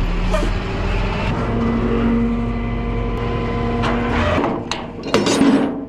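Vehicle engine running steadily while a car is loaded onto a flatbed tow truck. About four seconds in come a few sharp clanks and knocks, the loudest around five seconds in.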